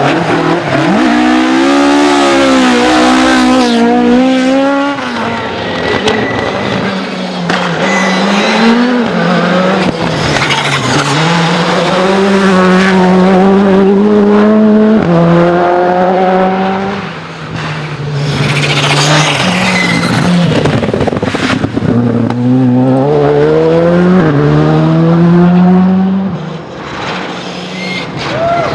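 Rally cars at full throttle, engines revving up through the gears with quick shifts where the pitch drops and climbs again, several passes one after another, with some tyre squeal.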